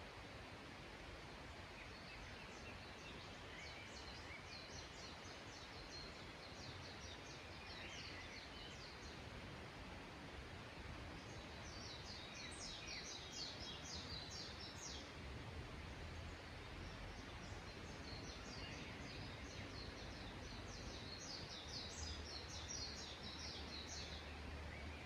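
A small songbird singing a rapid, high trilling song in three bouts of about three seconds each, about a third of the way in, around the middle and near the end, over a steady background hiss.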